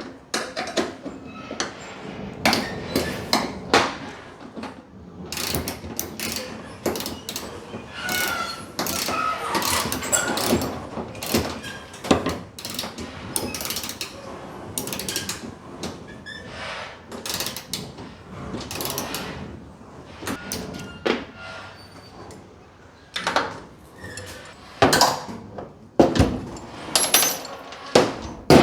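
Hand tools and metal parts knocking and clicking in irregular sharp strikes, from work bolting toolbox hardware onto a truck bed.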